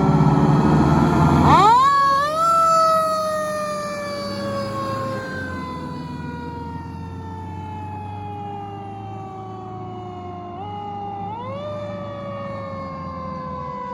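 Fire engine siren winding up sharply, then slowly winding down in pitch over many seconds, and winding up again near the end. The truck's heavy engine rumbles loudly for the first second or so, then fades.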